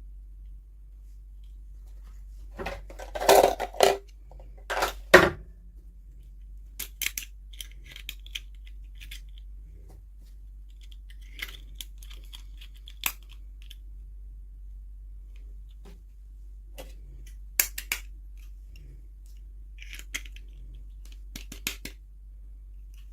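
Toy packaging being handled and opened by hand: two loud bursts of crinkling and rustling about three and five seconds in, then scattered light clicks and taps of small plastic pieces.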